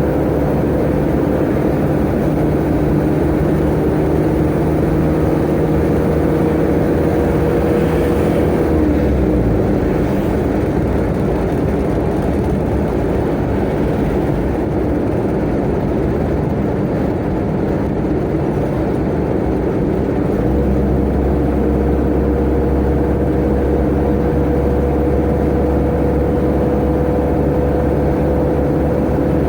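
Tata Ace mini truck's engine running steadily under way, with road noise. About nine seconds in the engine pitch falls away and the sound changes, then it steadies again.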